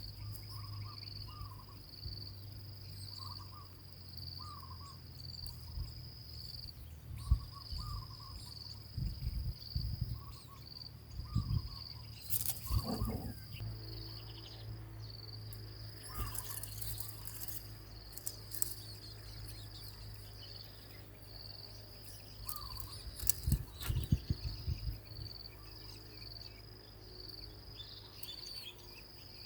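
An insect, likely a cricket, trills steadily in a pulsing high band, with faint short bird chirps here and there. Several loud low thumps and rumbles, like wind or handling on the microphone, come twice: a few seconds in and again about three-quarters through.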